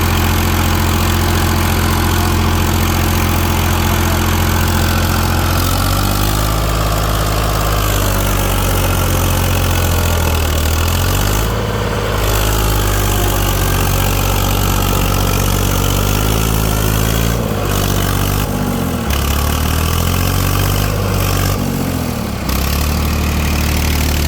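Heavily loaded tractor's engine running steadily, then revving up and down repeatedly from about six seconds in as it labours stuck on an uphill climb.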